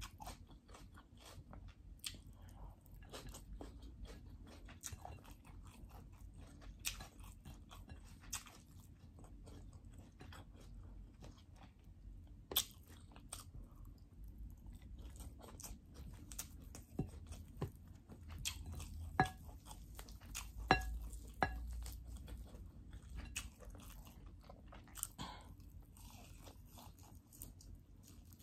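A person chewing and biting into fried rice and a roast chicken drumstick, eaten by hand, with many sharp, irregular mouth clicks.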